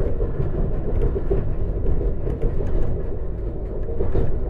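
Alstom Coradia iLint hydrogen train running on the rails, heard from inside the passenger car: a steady low rumble of wheels on track with scattered light clicks.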